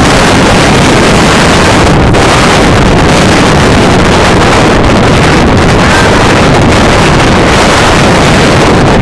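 Strong wind buffeting the microphone: a loud, unbroken rush with heavy low rumble.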